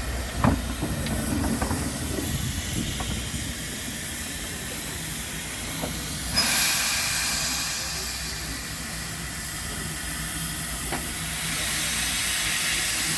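Steam locomotive Sir Berkeley, a Manning Wardle saddle tank, standing with steam hissing: a few metal knocks early, then a loud hiss of escaping steam starts suddenly about halfway through and keeps going.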